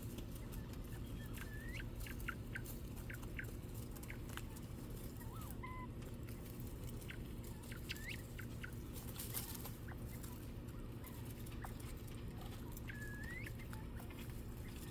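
Quail giving scattered short peeps and chirps, a few of them quick rising calls, over a steady low hum.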